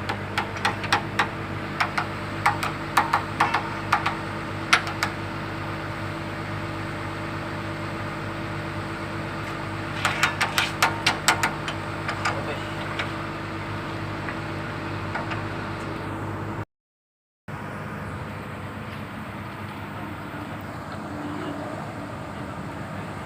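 Komatsu PC200-7 excavator's diesel engine running steadily, with two runs of quick, sharp metal strikes, one in the first five seconds and another around ten to twelve seconds in, typical of hammering a bucket pin or bushing home. The sound drops out briefly after about seventeen seconds, then the engine runs on.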